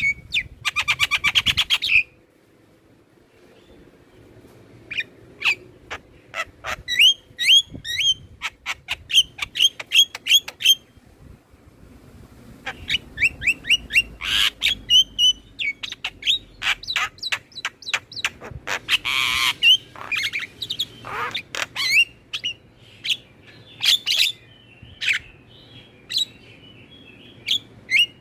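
Javan myna (jalak kebo) chattering song: rapid runs of short, sharp whistled and harsh notes with fast trills, coming in bursts with brief pauses. This is a tutoring recording of the kind played to get caged mynas singing.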